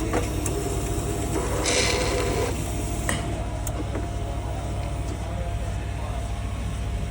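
Self-serve coffee machine running with a steady low hum, a short hiss about two seconds in and a couple of clicks just after.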